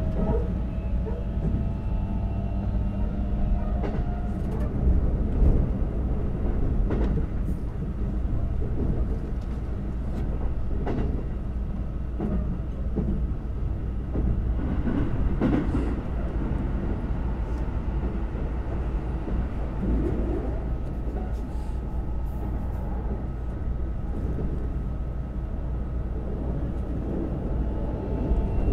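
Keikyu 2100-series electric train running, heard from inside the passenger car: a steady low rumble of wheels on rail with occasional clacks. A faint motor whine rises in pitch during the first few seconds.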